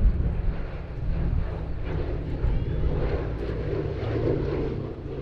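The four radial piston engines of a Boeing B-17G Flying Fortress droning steadily as the bomber flies its display.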